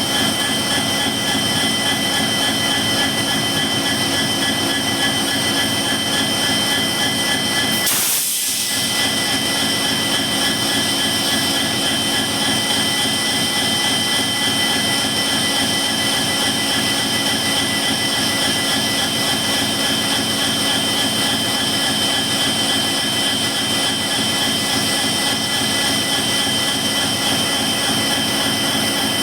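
EMD WDG4 diesel locomotive running steadily, its turbocharged two-stroke 16-cylinder engine making a jet-like hum with a high, even turbocharger whine. About eight seconds in the sound breaks off briefly, then carries on unchanged.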